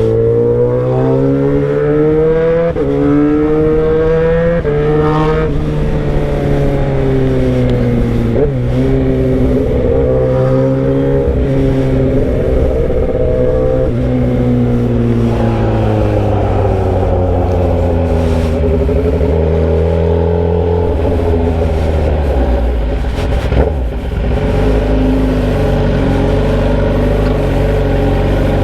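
Motorcycle engine running straight through a bare exhaust pipe with the muffler removed, loud. Its pitch climbs through the gears with two quick shifts in the first few seconds, holds, then falls away as the bike slows about halfway through before picking up a little again.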